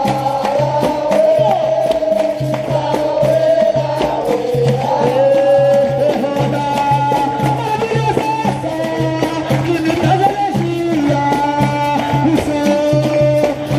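Capoeira roda music: singing over a steady hand-drum beat, with a rattle.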